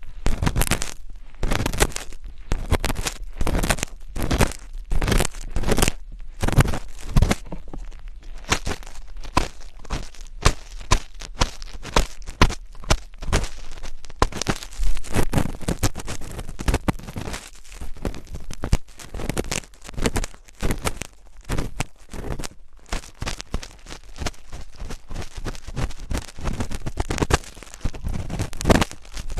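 Close-miked ASMR scratching and rustling on the microphone: crisp, crinkly strokes, spaced about two a second at first, then coming faster and closer together after about eight seconds.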